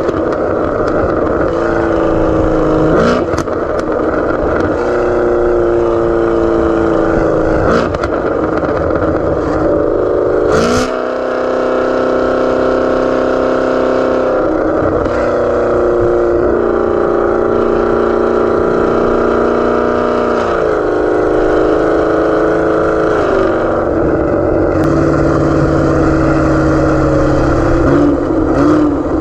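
Chevrolet Camaro ZL1 1LE's supercharged V8, fitted with a cam, headers and a Corsa Extreme exhaust, pulling hard under acceleration. The loud engine note climbs steadily in pitch and drops back several times as it shifts up through the gears.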